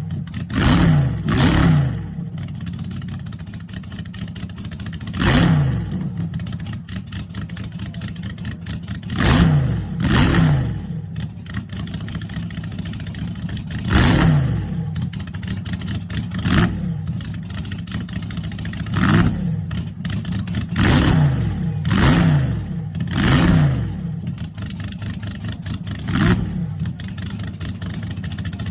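Bantam altered drag car's small-block Chevy V8 idling lumpily, with about a dozen sharp throttle blips that rise and drop straight back to idle.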